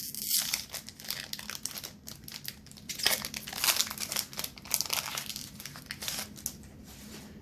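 Foil wrapper of a Pokémon Celebrations booster pack crinkling in the hands as it is torn open, in a dense run of irregular crackles.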